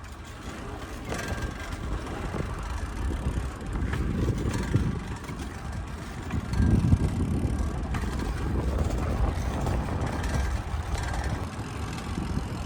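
Wind rushing over the microphone and road noise while riding a bicycle, growing louder about four seconds in as speed picks up.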